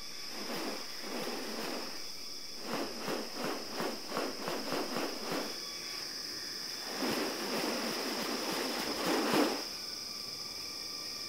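Steady high-pitched insect drone of a tropical rainforest. Over it come short rasping noises: a quick series at about three a second, then a longer, louder rasping stretch near the end.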